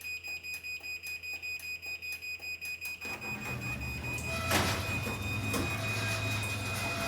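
Chamberlain garage door opener beeping rapidly, about four beeps a second, as its warning before a remote close. About three seconds in, the motor starts and the door begins to close with a low steady running sound and a clunk, while the beeping goes on.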